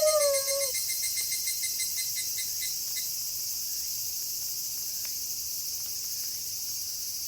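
A wolf's howl slides down in pitch and ends within the first second. Behind it, crickets chirp in a steady high chorus.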